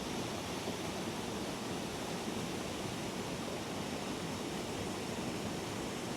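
Steady rushing of a waterfall, Spearfish Falls, a 50-foot drop: an even, unbroken roar of falling water.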